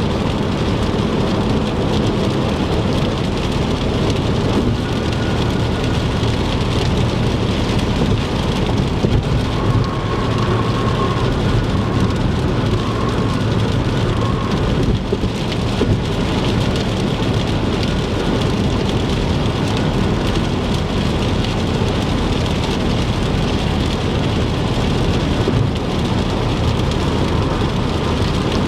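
Heavy rain pelting a moving car, mixed with the steady rush of tyres on a wet highway.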